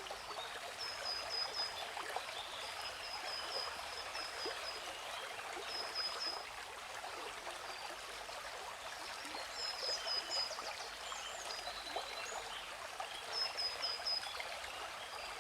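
Steady rushing water of a waterfall, with birds chirping over it in quick runs of short, high notes, several times.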